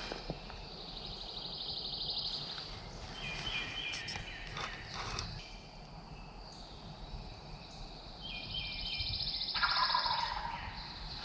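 Wild birds calling in the woods: a fast, high trill sung twice, short stepped high phrases in between, and a louder, lower call about ten seconds in.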